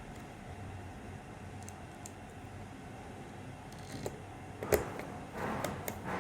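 Quiet room noise, then a few small clicks and knocks from about four seconds in, the sharpest near five seconds, as the electric hair clipper's casing and screws are handled during reassembly.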